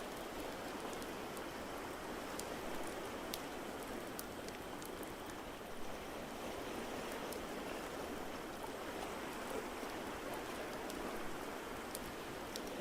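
Steady rushing water noise from the ocean-wave ambience, with a fireplace's wood fire giving sharp, sparse crackles and pops every second or so.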